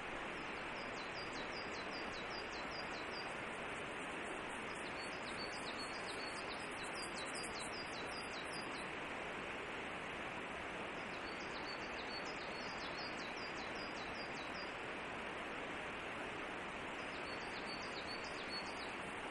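A small bird calling in four bursts of quick, repeated high chirps, about three or four notes a second, each run lasting a few seconds, over a steady background hiss.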